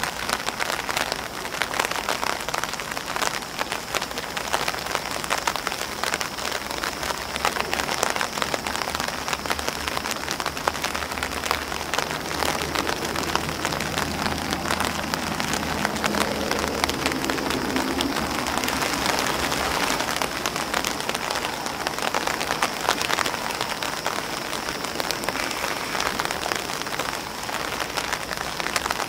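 Rain falling on an umbrella and on grass leaves: a dense, steady patter of many small drops.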